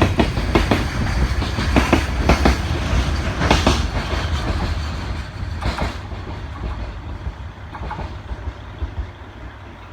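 Freight train rolling past, its wheels clacking over rail joints over a low rumble; the clacks thin out and stop about six seconds in, and the rumble fades away.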